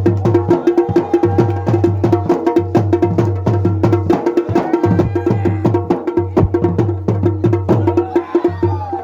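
Garhwali dhol and damau drums played together in a fast, dense rhythm: quick sharp strokes over a deep, steady booming drum tone.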